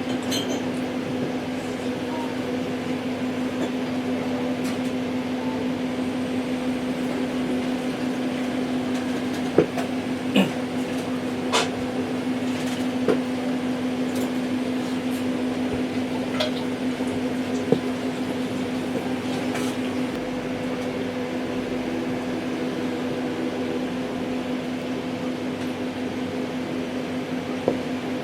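Steady mechanical hum with a few scattered sharp clicks.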